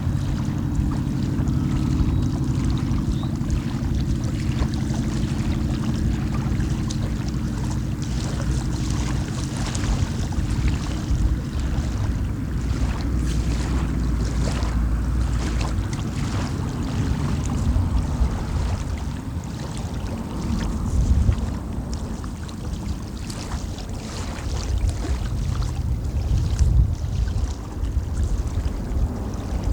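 Water lapping and splashing in quick irregular bursts, under a heavy low rumble of wind on the microphone. The rumble carries a steady low hum that fades about halfway through.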